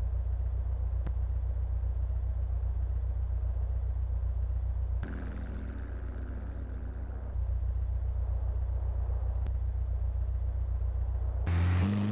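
Steady low rumble of a car in motion. The rumble shifts briefly about five seconds in, and louder music starts near the end.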